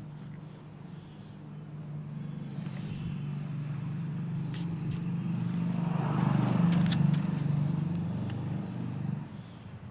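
A motor vehicle passing by: its low engine hum grows louder over several seconds, is loudest a little past the middle, then fades away near the end.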